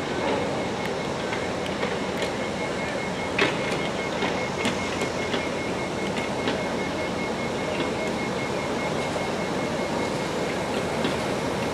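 Unpowered new CRRC Changchun metro train being towed slowly through depot trackwork: a steady rolling rumble of wheels on rail with scattered sharp clicks, the loudest about three and a half seconds in.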